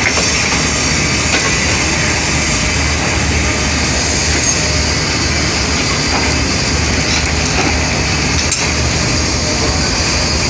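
Idling train machinery: a steady low drone with hiss, and a few faint clicks.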